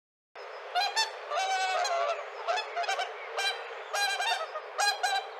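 Swans calling: a run of short, repeated honking calls over a steady hiss, starting about half a second in.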